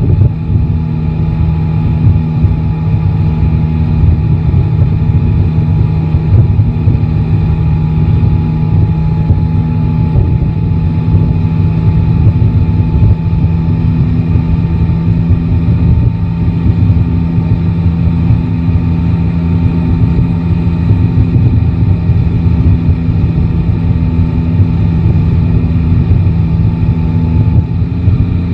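Yamaha Tracer 9 GT's inline-three engine running steadily at nearly constant revs, with no big rev changes.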